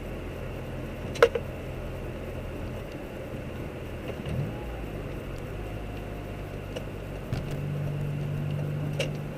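Mazda 6s engine idling steadily through straight pipes from the Y-pipe back, keeping the stock resonators and cats, with a low even exhaust note. A sharp click comes about a second in. Near the end the exhaust note steps up slightly and holds for about two seconds before settling back.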